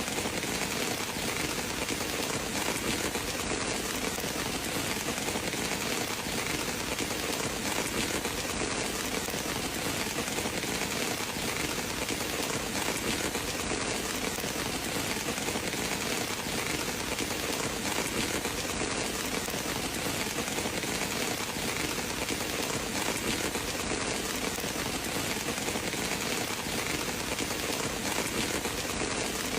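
Steady rain falling: an even, unbroken hiss with no thunder or other single loud sounds standing out.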